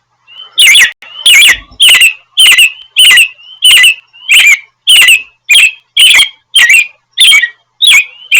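American robin calling: a loud, sharp call note repeated about fourteen times at a bit under two a second, each note falling in pitch.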